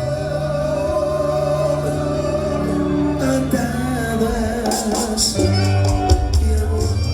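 Live band music, a passage between sung lines with sustained melody notes; percussion strikes grow busier about halfway through.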